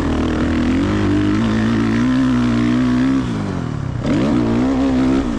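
450 dirt bike engine pulling under throttle. Its pitch climbs and holds, falls off about three seconds in as the throttle is shut, then revs back up just after four seconds.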